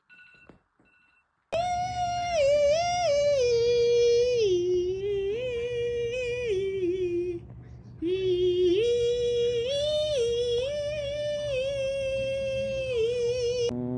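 A high voice singing a wordless tune, holding and stepping between notes, in two long phrases of about six seconds each with a short break in the middle.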